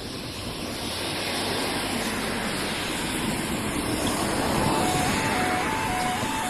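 Noise of an approaching train, growing steadily louder, and about two-thirds of the way in a two-tone warning alarm starts, stepping between a higher and a lower tone about twice a second.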